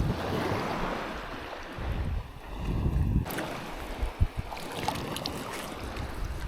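Water sloshing and splashing, with gusts of wind rumbling on the microphone and a short knock about four seconds in.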